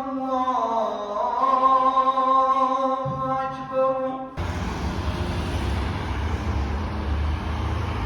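A voice singing a chant-like melody in long held notes that slide in pitch, cut off abruptly about four seconds in. Steady rumbling noise of a moving vehicle follows.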